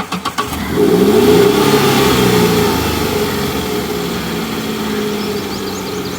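Car engine revving as the car pulls away, rising in pitch for a couple of seconds, then running steadily, with a few clicks at the start.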